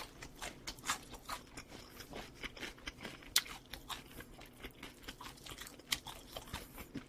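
Faint chewing and biting of crunchy baked chicken close to the microphone: an irregular string of small sharp crunches and mouth clicks.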